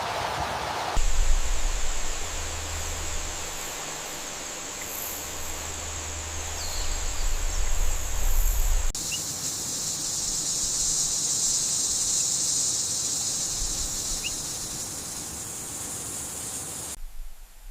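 Steady high-pitched insect drone with a low rumble beneath it. About halfway through, the drone changes abruptly to a broader, higher hiss, and it cuts off just before the end.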